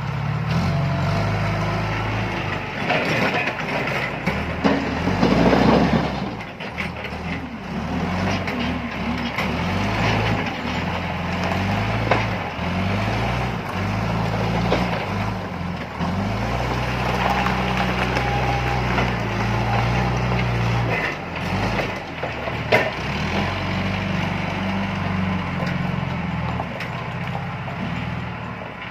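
John Deere 310E backhoe loader's diesel engine running under load, its pitch stepping up and down as the hydraulics work. A burst of rattling noise comes about five seconds in and a single sharp knock near the end.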